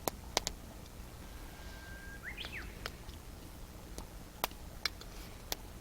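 A bird calls once in the middle: a short held whistle, then quick up-and-down notes. Scattered sharp clicks sound around it, a few near the start and several in the second half.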